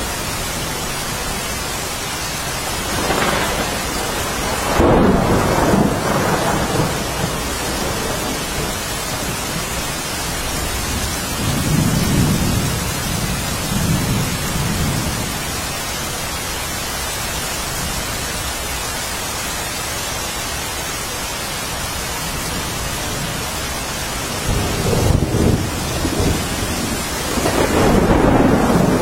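Steady heavy rain with rolling thunder: low rumbles swell and fade about three times, a few seconds in, around the middle and near the end.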